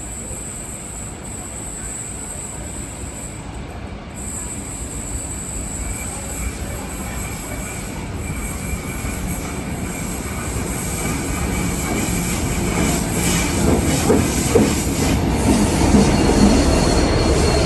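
Train running past on the rails and getting steadily louder, with a high steady squeal of steel wheels on the track and a clatter of wheels over the rail in the second half.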